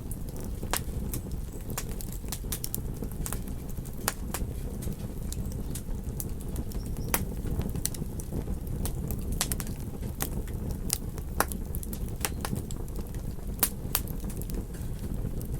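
Campfire crackling, with frequent irregular sharp pops over a steady low rumble of ocean surf.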